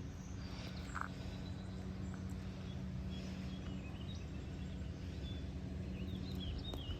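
Outdoor background noise: a steady low hum, with a few short bird chirps, most of them near the end.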